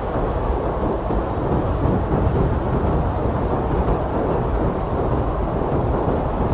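Strong blizzard wind blowing steadily, a dense low rushing noise with no single gust or whistle standing out.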